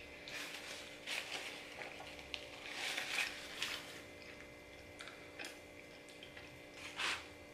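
Quiet closed-mouth chewing of creamy pasta (chicken carbonara), with a few light clicks of a plastic fork in a plastic takeout bowl, over a faint steady hum.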